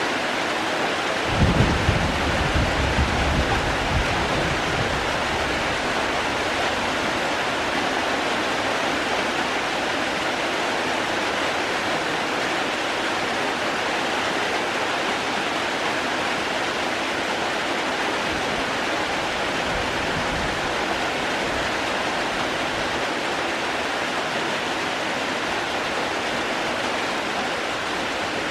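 Steady heavy rain falling. A low rumble comes in about a second and a half in and fades over a few seconds.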